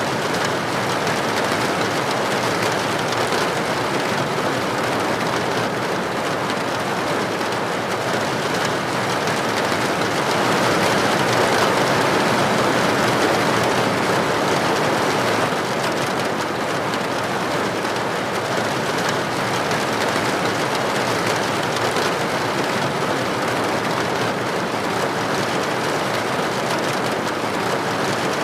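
Steady rain falling, a dense, even hiss that swells a little in the middle.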